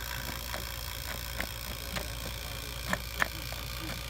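Refrigeration vacuum pump running with a steady low hum as it pulls a vacuum on the cooler's system through the manifold's opened low side. Several light clicks sound over it, the loudest a pair about three seconds in.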